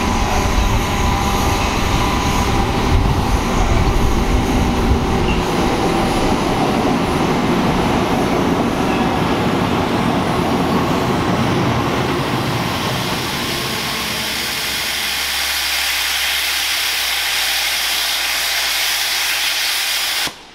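Rhaetian Railway electric locomotive hauling a tank wagon rolling past close by, its wheels running on the rails. The deep rumble drops away about two-thirds of the way through, leaving a higher hiss of rail noise.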